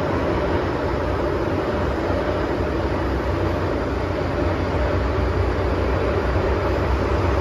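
MTR M-train electric metro train running steadily along the track, a continuous rumble of wheels and running gear.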